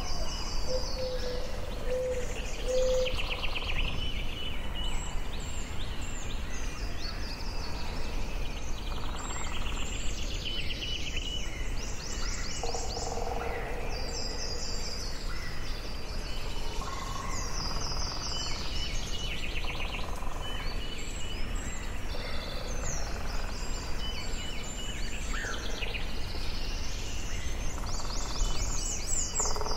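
Forest birdsong: several songbirds singing and calling over one another in overlapping trills, whistles and chirps, over a steady low background rumble.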